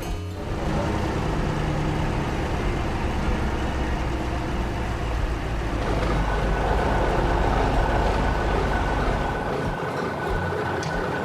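Tractor engine running steadily with a low rumble. About six seconds in a steady high whine joins it, and the deep rumble fades out near the end.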